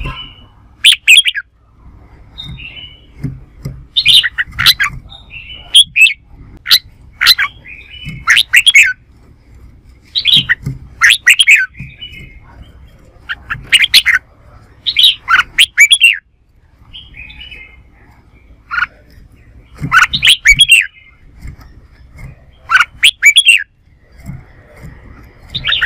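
Red-whiskered bulbul singing: loud, short warbling and chirping phrases with quick up-and-down pitch sweeps, repeated every second or two.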